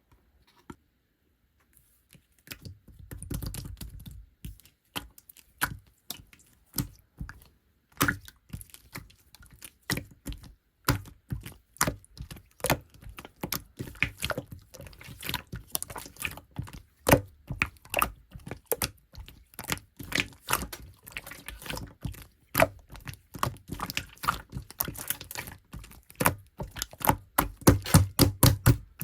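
Clear slime being squished and poked by hand: a dense, irregular run of sharp pops and clicks, several a second. It starts about two seconds in and is loudest near the end.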